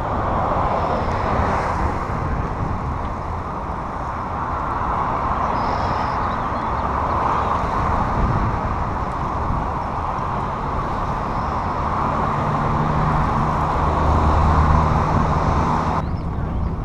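Steady rushing noise of riding a bicycle along a path beside road traffic. A motor vehicle's engine hum rises from about twelve seconds in, and the rushing noise drops off suddenly near the end.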